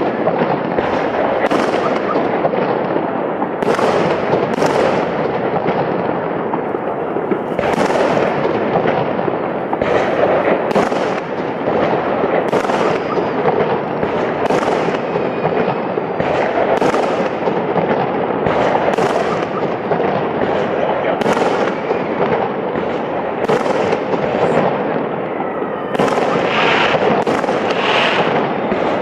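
Festive fireworks salute: shells bursting with sharp bangs about every second, over a steady continuous din.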